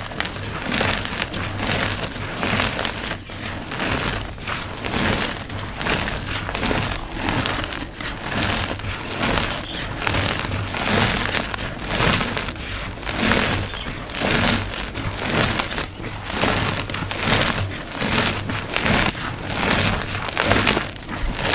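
Blocks of gym chalk crushed in a steady run of crunchy, crumbling crushes, about two a second.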